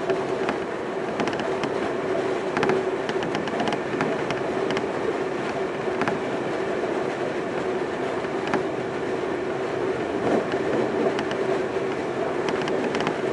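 Semboku Rapid Railway 5000 series electric train running at speed, heard from inside the passenger car: a steady rumble with a droning tone, and the wheels clicking over rail joints now and then.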